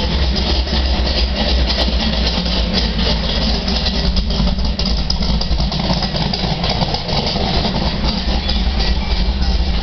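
1967 Shelby GT500E Super Snake's V8 idling steadily, a low, even running sound with no revving.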